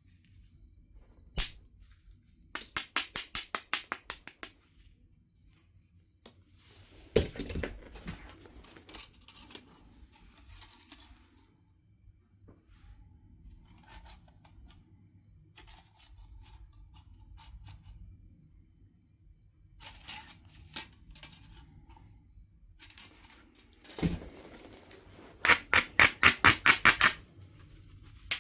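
Knife River flint being knapped: a few single sharp clicks and several quick runs of short clicking strokes on the stone's edge, about seven a second, the loudest run near the end.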